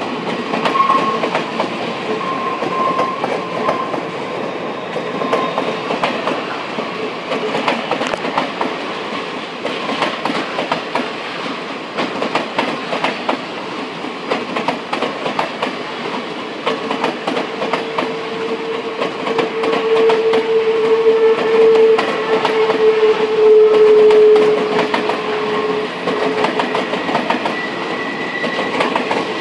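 Circus train cars rolling past on jointed track, with a continuous rattle and clacking of wheels over the rail. A thin, drawn-out squeal rises over it in the second half.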